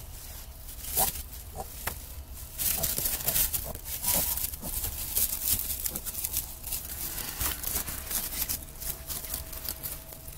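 Newborn piglets shuffling in straw bedding: a busy rustling and crinkling, with a few short squeaks.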